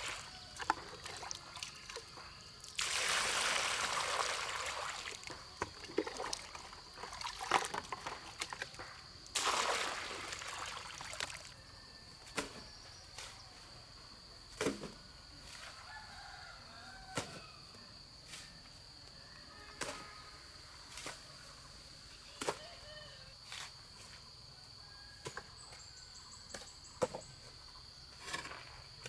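Outdoor masonry work: scattered taps and knocks of tools and bricks, with two longer noisy stretches of a second or two, about three and ten seconds in. Under it a steady high insect drone, and a few faint bird chirps.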